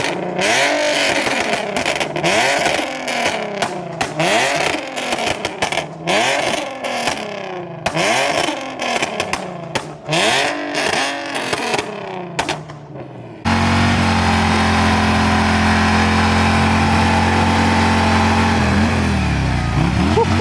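Car engines being revved over and over, each rev rising and falling in pitch, several overlapping. About two-thirds of the way through, the revving cuts off abruptly and a steady, even engine drone at a fixed pitch takes over.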